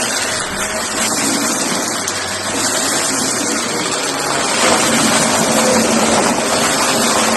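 Shark vacuum cleaner running steadily: a loud, even rush of air with a faint hum.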